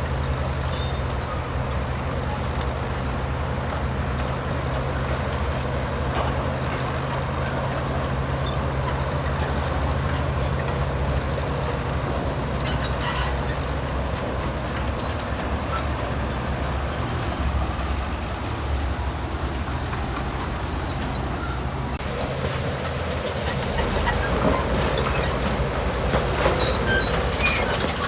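Heavy diesel machinery engine running with a steady low drone. From about three-quarters through it grows louder and busier, with scattered clatter.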